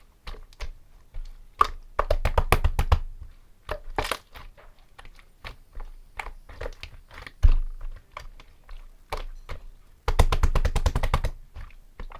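Clear slime being squished and pressed by hand, giving many sharp wet clicks and pops, in two fast runs about two seconds in and again near the end, with one loud pop in between.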